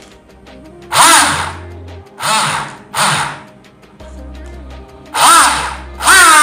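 A small electric motor revved in short bursts, about four times, its whine rising and falling in pitch with each burst, over background music.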